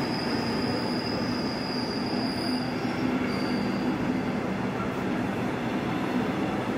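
Double-deck regional express train rolling slowly into the platform as it arrives: steady running noise of the coaches, with a thin high squeal over the first three seconds or so.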